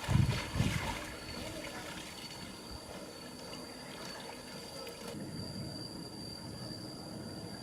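Water splashing briefly in the first second, then a steady low trickle of water.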